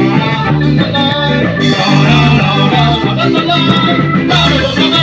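Band playing ska fusion with electric guitar and bass in a steady, driving rhythm: an instrumental passage with no vocals.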